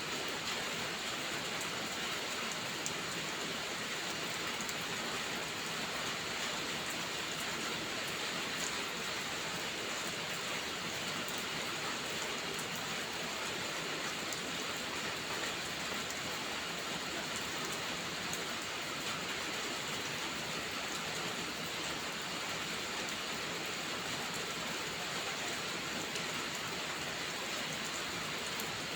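Steady rain falling, an even hiss with a few faint, scattered ticks.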